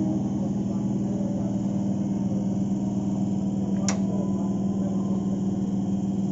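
Suburban EMU local train giving off a steady low electrical hum, with a short sharp click about four seconds in.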